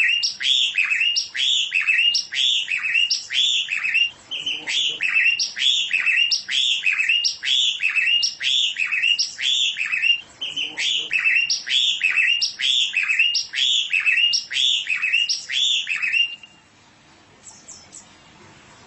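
A songbird chirping in a fast, repeated series of short notes, each dropping in pitch, about two or three a second, with brief breaks about four and ten seconds in. The song stops about sixteen seconds in.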